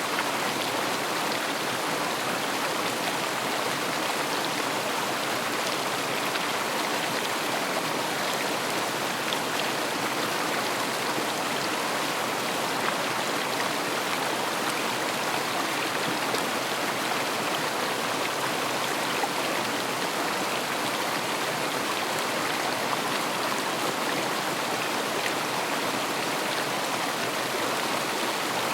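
River water flowing steadily, a constant, even rush of running water.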